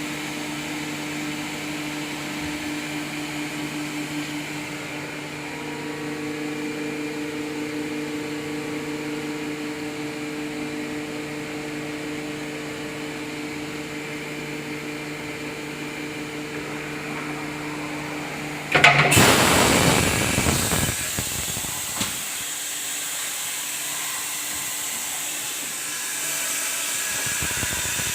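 Heller MC16 CNC horizontal machining center running with a steady hum and a few held tones. About two-thirds through, a sudden loud hissing rush starts, eases after a couple of seconds and carries on as a steady hiss.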